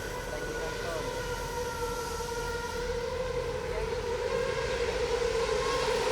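Formula One car's V8 engine held at steady revs, a single drawn-out tone that creeps slowly upward in pitch.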